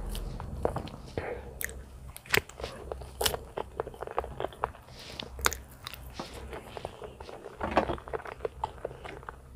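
Close-miked chewing of a mouthful of peeled banana, with irregular mouth clicks and smacks.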